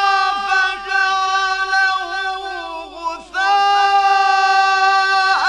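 Quran recitation by a man in a melodic style. The voice holds long, drawn-out notes, breaks briefly about three seconds in, and then makes rapid ornamented turns in pitch near the end.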